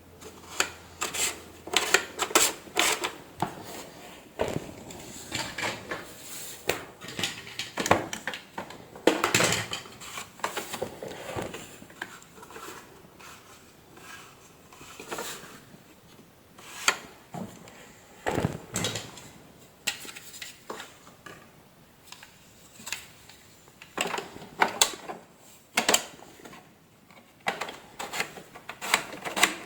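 Irregular clicks, knocks and light rattles of hard parts and tools being handled and fitted, with short pauses in between.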